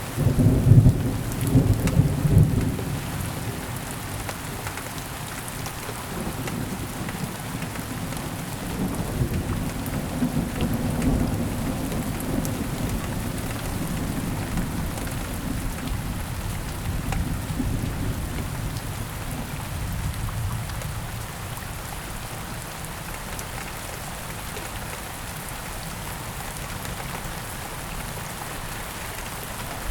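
Heavy rain falling steadily, with a loud rumble of thunder in the first few seconds and a weaker rumble about ten seconds in.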